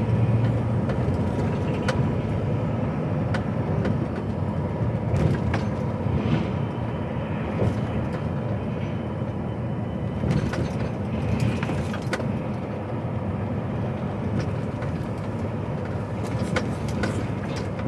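Lorry cab interior while driving: the diesel engine runs steadily with road rumble, and there are a few light clicks or rattles.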